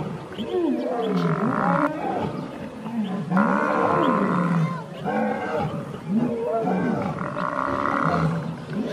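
Lions growling as they attack an African buffalo, and the buffalo bellowing in distress, in repeated calls that rise and fall in pitch.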